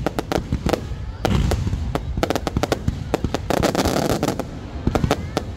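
Fireworks display: a rapid, irregular string of bangs from bursting aerial shells, with a dense crackling patch about halfway through and faint rising whistles of shells going up.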